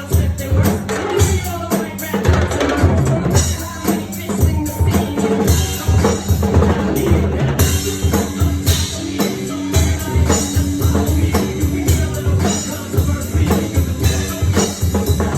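Drum kit played in an improvised groove over a recorded hip-hop backing track, with steady kick-drum, snare and rimshot hits.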